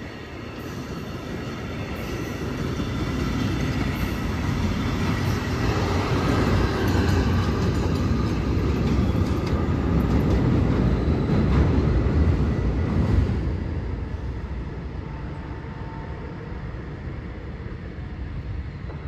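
A train passing close by on the rails: wheel and engine noise builds over several seconds, is loudest about twelve seconds in, then fades away.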